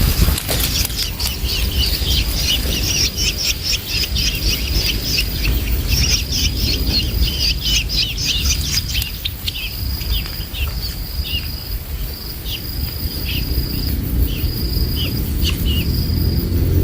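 Young long-tailed shrikes chirping rapidly in a dense run, then thinning to scattered single calls. Underneath are a steady high insect trill with short gaps and a low rumble.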